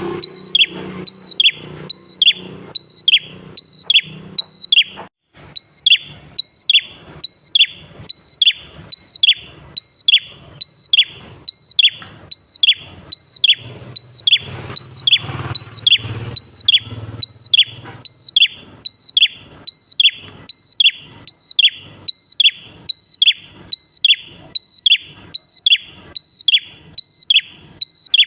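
Prinia (prenjak) song: one call repeated steadily about twice a second, each a short high note sliding quickly down in pitch, with a brief break about five seconds in.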